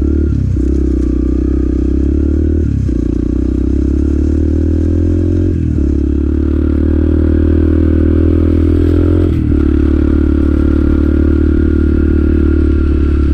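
Motorcycle engine running under way, a steady note that dips briefly four times, as at gear changes.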